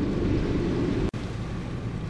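Typhoon wind buffeting the microphone: a steady low rumbling noise. It breaks off for an instant about a second in and resumes a little quieter, with less rumble.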